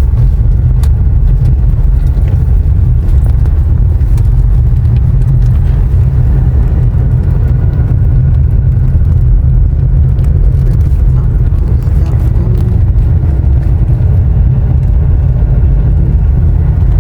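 Steady low rumble of a car driving along a road: tyre, engine and wind noise, even and unbroken.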